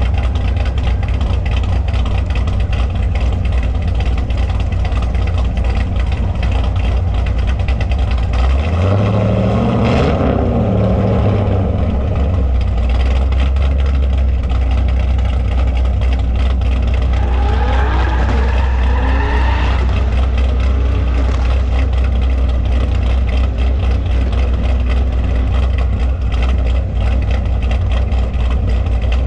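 Car engine idling with a loud, steady low rumble. It revs up briefly about nine seconds in, and rising and falling engine notes come again around eighteen seconds in.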